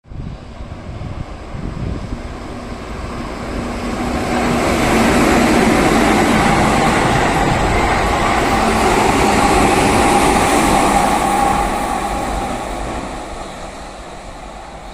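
A Keihan 8000 series electric train runs through the station at speed without stopping. The rumble of wheels on rail and the running noise build over a few seconds, hold loud for about seven seconds, then fade away as it leaves.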